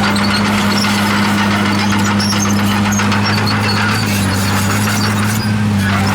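Komatsu D51PX crawler bulldozer's diesel engine running at a steady speed, with high squeals from its steel tracks.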